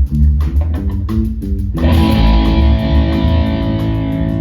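Amplified electric guitar and bass noodling: a quick run of plucked low notes, then a full chord struck a little under two seconds in and left ringing.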